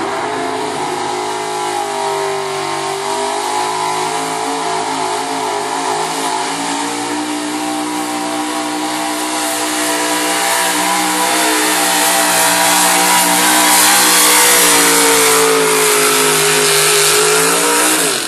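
1972 Ford F-250 super stock 4x4 pulling truck's race engine held at high revs under full load while pulling the sled. The engine note sags a little in pitch, then climbs and grows louder toward the end.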